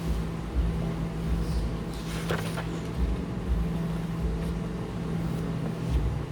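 Café background noise: a steady low hum and rumble, with one short, sharper noise about two seconds in.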